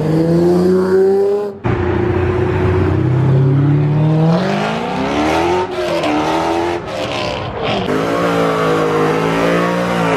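Performance car engine revving hard: held high, cut off sharply about a second and a half in, then climbing in a long rising sweep, blipped with several brief sharp cuts, and held at high revs near the end.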